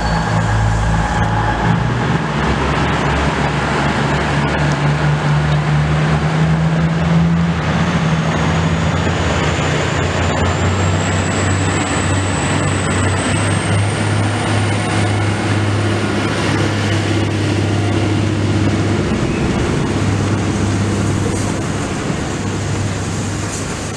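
Steam-hauled train of vintage wooden carriages rolling slowly past the platform, a steady low rumble throughout. A thin high squeal from the running gear rises slowly in pitch through the middle.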